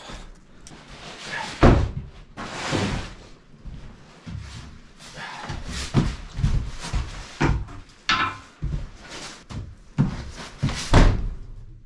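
A run of irregular knocks and thumps, the loudest about two seconds in and again near the end, with rustling and scraping between them: objects being handled and set down.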